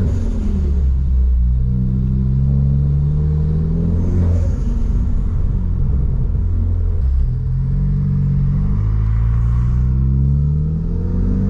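Ford Focus ST's turbocharged engine pulling under acceleration: its pitch climbs steadily, then falls back at each upshift and climbs again, several times over.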